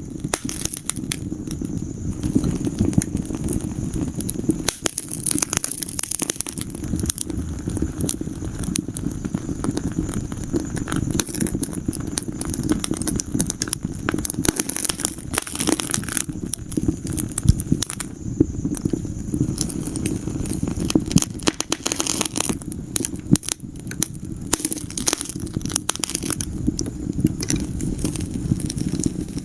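Wood fire in a fireplace crackling, with dense irregular pops and snaps over a steady low rumble of burning.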